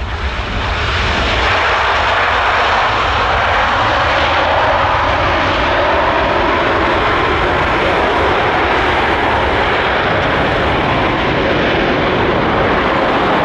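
Jet engines of a landing Boeing 787-10 airliner: a loud, steady rushing noise that swells during the first second and then holds.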